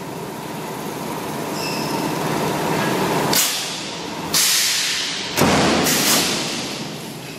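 CNC metal spinning machine running, a steady mechanical noise broken four times in the second half by sudden loud rushes of high noise that each fade within about half a second.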